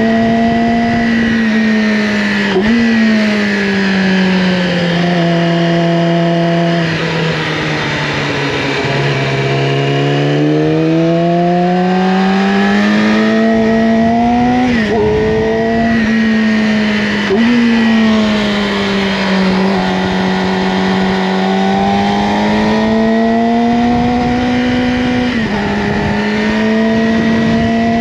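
Yamaha R6's inline-four engine through an Akrapovic slip-on exhaust, ridden on a winding road. The revs swell and sag with the throttle, with sudden jumps in pitch at several gear changes.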